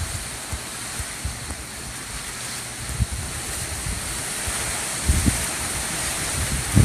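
Hurricane wind blowing in a steady rushing hiss, with gusts buffeting the microphone in low rumbles about five seconds in and again near the end.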